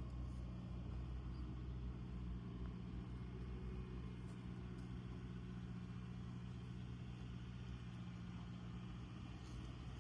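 Toyota ToyoAce camper truck's engine idling steadily, a low even hum.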